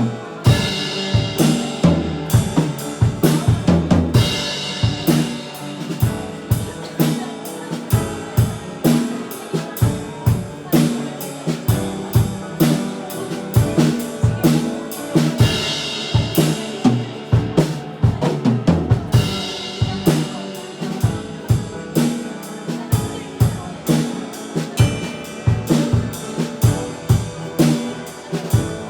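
Live worship band music: a drum kit keeps a steady beat with snare and bass drum under sustained piano chords.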